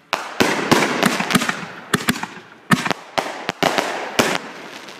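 Aerial fireworks bursting overhead in rapid succession: about fifteen sharp bangs over the first four seconds, with crackling between some of them, thinning out near the end.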